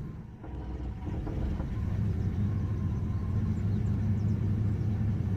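Chevrolet 4.3 L Vortec V6 in an S10 pickup running under way, a steady low rumble that builds a little in the first second or two and then holds. It runs smooth with no misfire, the erratic miss cured by advancing the ignition timing.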